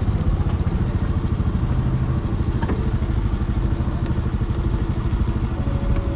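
Motorcycle engine running steadily, its exhaust a fast even pulsing.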